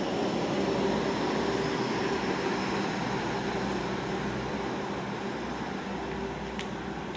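Passenger train coaches rolling through the station without stopping, a steady rumble of wheels on rail that eases slightly as the last coach passes near the end.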